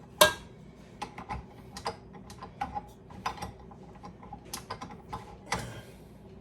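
A metal dough hook being fitted onto a stand mixer and handled: a sharp click just after the start, then a run of light, irregular clicks and knocks.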